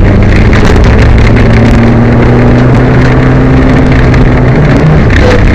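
Peugeot 205 rally car's engine running at speed over road and wind noise, recorded so loud it distorts; the car was misfiring on this stage. The engine note holds steady, then shifts about four and a half seconds in.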